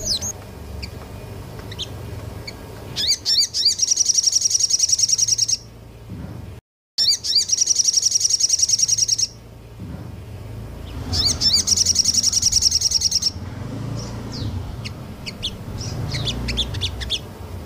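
Small songbird singing in fast 'nembak' bursts: three loud runs of rapidly repeated high notes, each two to three seconds long, with softer scattered chirps between them. The sound cuts out completely for a moment just before the second run.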